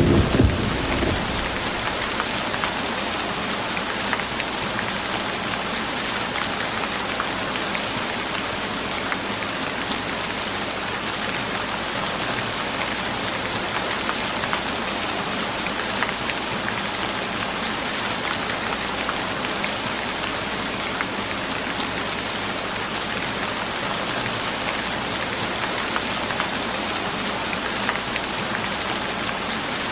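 Steady rain: an even, dense hiss of many drops falling on surfaces. A louder low rushing sound dies away within the first second.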